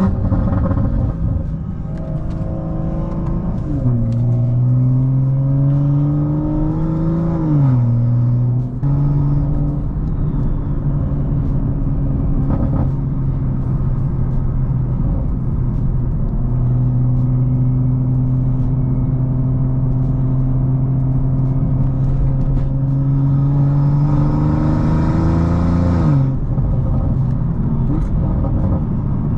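Tuned BMW M340i's turbocharged B58 inline-six engine under way. Its note climbs for a few seconds and drops sharply about seven seconds in, as at a gear change. It then holds steady for a long stretch, climbs slowly again and falls away sharply near the end.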